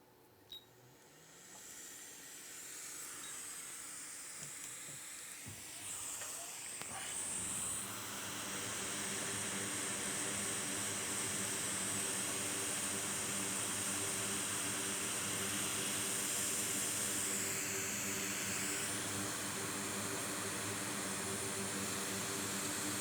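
Steady rushing-air hiss with a low hum under it, building up over the first eight seconds or so and then holding steady, as from a blower switched on and running.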